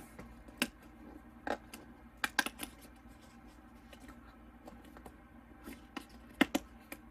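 Hands opening a small sealed packaging door and handling what is inside, with scattered light clicks and scratching; the sharpest clicks come about two and a half seconds in and near the end.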